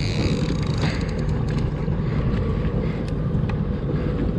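Steady low rumble of a small fishing boat on the water, with wind buffeting the microphone; a higher hiss in the first second and a string of faint ticks through the middle.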